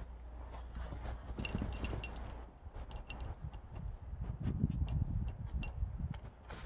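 A dog digging and scuffling in snow, its metal collar tags jingling and clinking in short bursts as it works.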